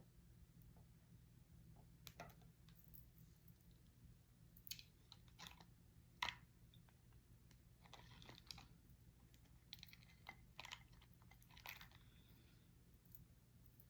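Faint close-up chewing of seafood-boil food, with scattered short crunches and clicks coming in clusters over a steady low hum.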